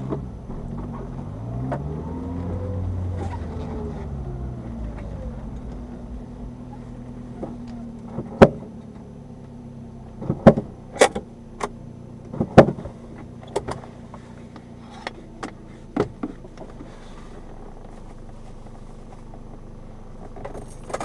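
Subaru Sambar kei vehicle's small engine: its note rises and falls in the first few seconds, then settles to a steady idle. A series of sharp clicks and knocks comes in the middle.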